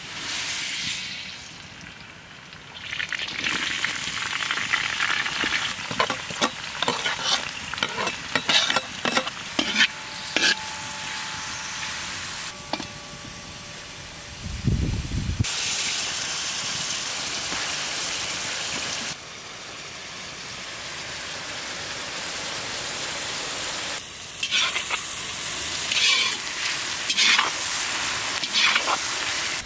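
Chopped onions frying in hot oil in a large metal cauldron, a steady sizzle, with repeated clicks and scrapes of a metal slotted spoon stirring against the pot. A low thump comes about fifteen seconds in.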